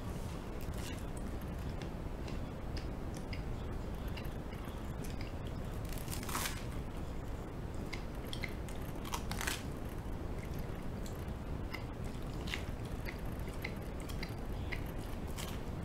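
Toast being bitten and chewed close to the microphone: many small crisp crunches and crackles, with two louder crunches about six and nine seconds in.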